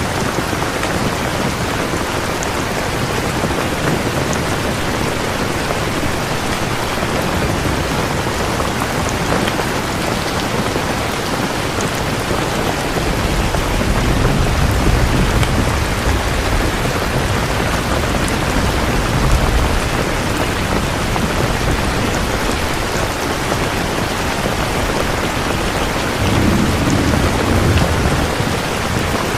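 Steady heavy rain, with low thunder rumbling in twice, from about halfway in for several seconds and again briefly near the end.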